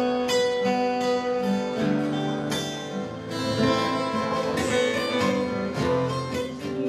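Acoustic guitar music, strummed and plucked chords with held notes.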